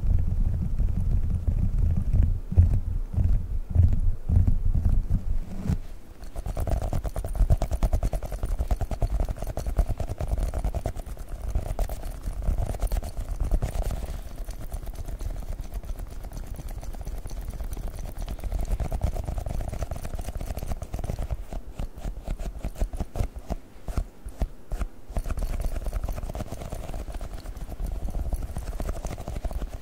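Fast, dense fingertip and nail tapping on Globbles, squishy sticky gel fidget balls. It is deep and heavy for the first six seconds, then lighter, quicker taps.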